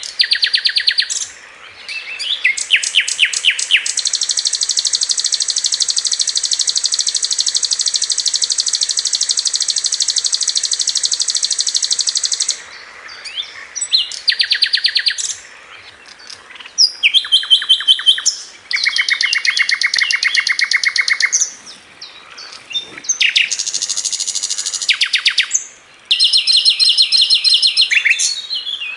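Sikatan Londo flycatcher singing its 'tembakan' phrases: high, very fast trills of repeated notes. One long trill runs for about eight seconds, followed by several shorter rapid bursts with brief pauses between them.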